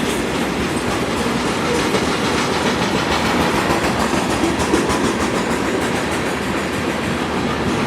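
Freight train cars rolling past on the rails: a steady rumble of wheels on track with a fast, even clicking of wheels over the rail joints.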